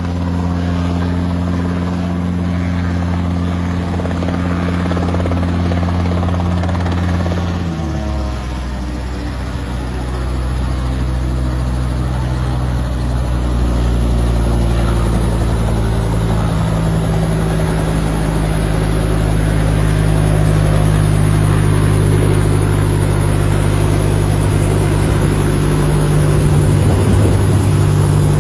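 Robinson R22 helicopter running close by, with its rotor and piston engine. About eight seconds in the pitch drops sharply, and it settles into a lower, steady run for the rest of the time.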